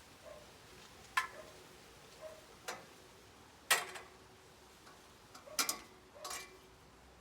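Scattered sharp metal knocks and clanks, about five, from scaffold bars and fittings being handled and put up. The loudest, about halfway through, leaves a short ringing tone.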